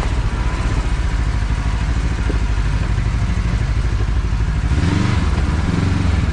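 Kawasaki KRX side-by-side's parallel-twin engine running steadily as it drives along a trail. The engine grows louder about five seconds in.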